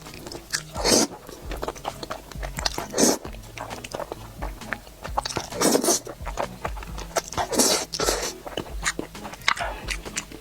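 Close-miked eating: a string of bites, wet chewing and slurping sounds, with four louder slurps or bites spread through, over faint background music.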